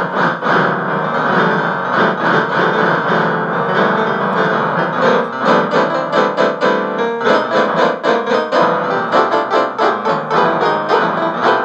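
Piano music with quick, busy runs of notes.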